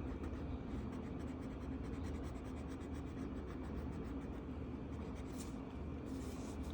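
Marker tip scratching across a coloring-book page in quick, repeated back-and-forth strokes, over a low steady hum.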